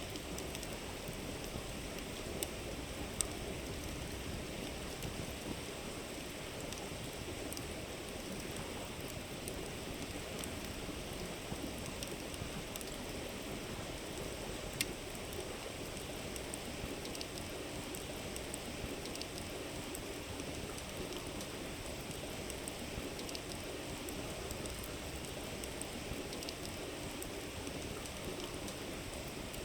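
Steady rush of a flowing river, with a campfire crackling here and there: a few sharp pops stand out, the clearest about three seconds in and halfway through.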